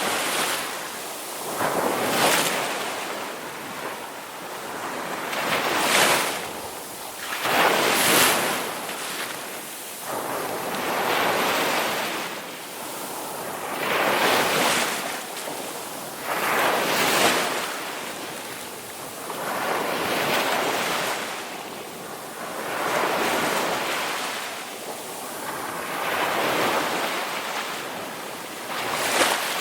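Ocean waves breaking and washing up on a shore, each surge swelling and falling away about every two to three seconds.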